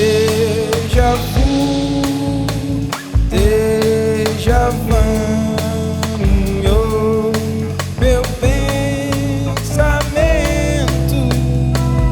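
A band playing a song: a voice singing long held notes over acoustic guitar, keyboards and a drum kit.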